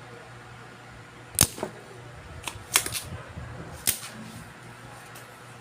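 About five sharp clicks and taps, close together in the middle, from tools and parts being handled on an electronics repair bench, over a steady low hum.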